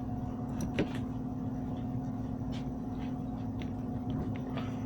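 A steady low electrical hum, with a few faint light clicks and taps scattered through it.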